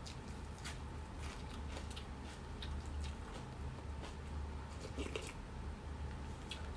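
Close-up eating sounds: crisp crunching and chewing of raw leafy greens, with many short, irregular crunches over a low steady hum.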